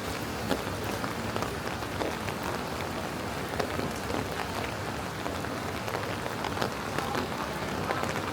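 Steady rain falling on a city street, a constant hiss with sharp drip ticks scattered through it.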